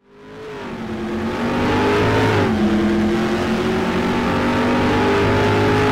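Car engine under acceleration, fading in over the first couple of seconds. Its pitch steps down once about two and a half seconds in, then holds at a steady note.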